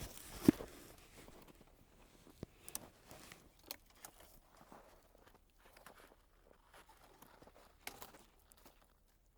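Sticks and twigs being handled and set back in place, with footsteps crunching in snow: a sharp knock about half a second in, then scattered small snaps and crackles.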